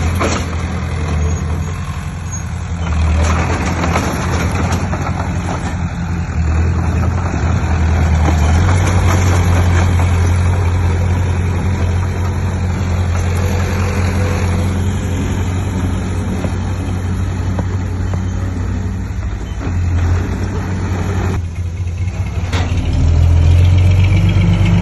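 Heavy diesel engine of earthmoving machinery running hard, a steady low drone with rattling noise over it; it swells about eight seconds in, dips briefly near the end and then picks up again.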